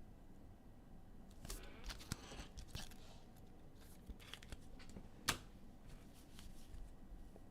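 Trading card packs being torn open and cards handled: bursts of wrapper tearing and rustling with light clicks, and one sharp click about five seconds in.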